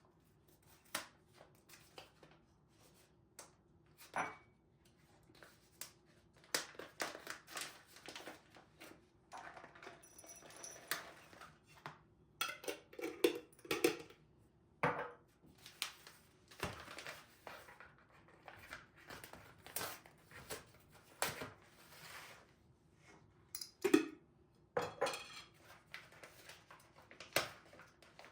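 Household kitchen clatter: dishes and utensils clinking and knocking in scattered taps and clicks, with a brief hissing stretch about ten seconds in.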